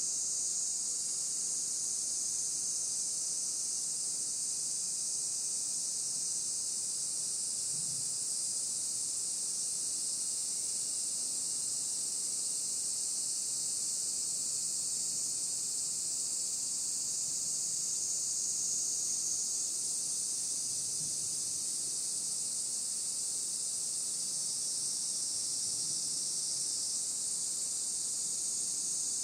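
Dense chorus of insects: a high-pitched, steady hiss with no pauses or swells.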